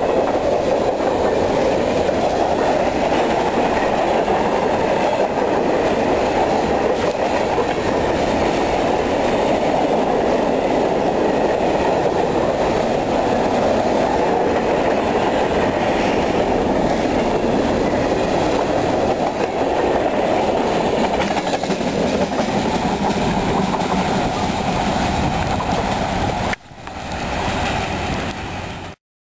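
Freight train of covered hopper cars rolling past close by: a steady rumble and rattle of steel wheels on the rails. The sound dips suddenly near the end, comes back briefly, then cuts off.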